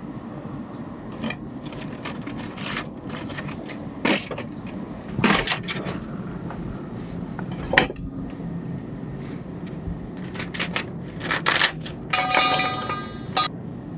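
Irregular clicks, knocks and short scrapes of small hard objects being handled, with a brief ringing clink near the end, over a steady low background hum.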